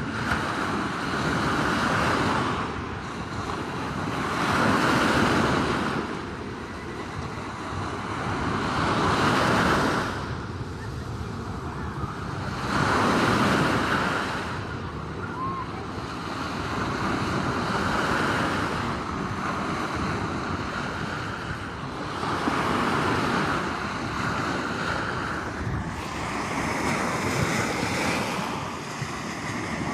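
Sea waves breaking and washing back, each surge swelling and fading about every four to five seconds.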